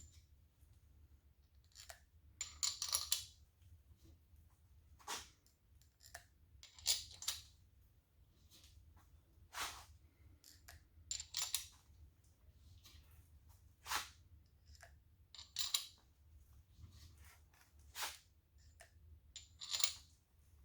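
Short metallic clinks and scrapes, about one every second or two, as steel main bearing cap bolts are handled and set into the bearing caps of a Toyota 4A-GE engine block by hand.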